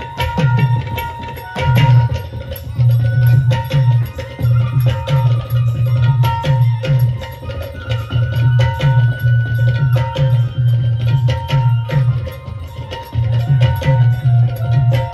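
Instrumental folk music: a dholki drum played in a fast, steady rhythm of deep strokes, with held melodic notes above it.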